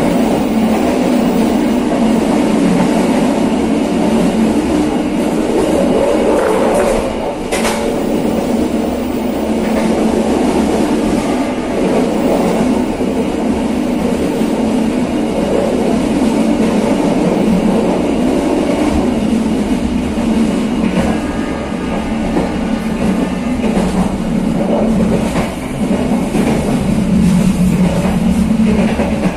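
KA Serayu passenger train running along the track, heard from its rear carriage: a steady rumble of wheels on rails with some clickety-clack, and one sharp click about seven and a half seconds in.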